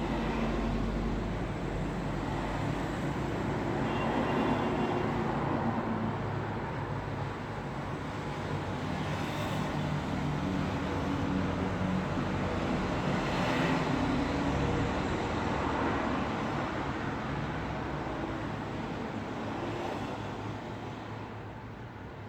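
Road traffic: a continuous rumble of vehicles with low engine hum, several passing cars swelling up and away, the whole easing down near the end.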